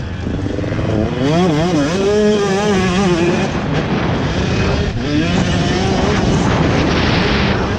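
Motocross dirt bike engine revving up and down, its pitch swooping as the throttle is worked.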